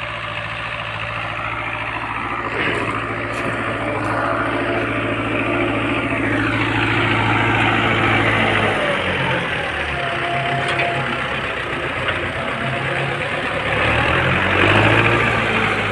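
Tractor engine running while it pulls a plough through a field. The engine note is steady at first, then shifts up and down several times in the second half as the engine speed changes.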